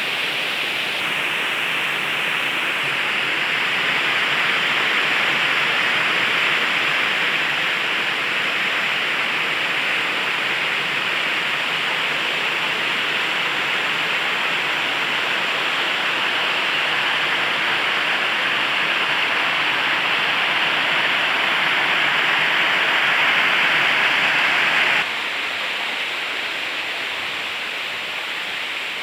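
Steady rush of a waterfall's falling water, a constant hiss with no break. It drops abruptly in level a few seconds before the end.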